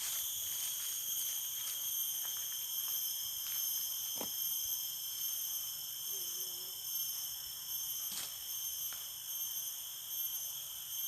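Steady, high-pitched shrilling of insects, several constant tones layered together, with a couple of faint brief sounds about four and eight seconds in.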